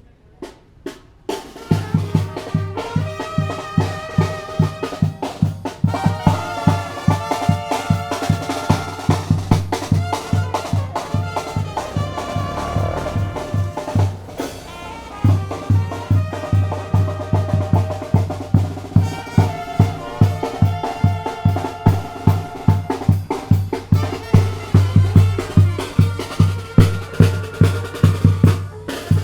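Tamborazo band playing: brass with bass drum and snare keeping a steady beat, starting about two seconds in. The low drum beat drops out for a few seconds midway, then comes back.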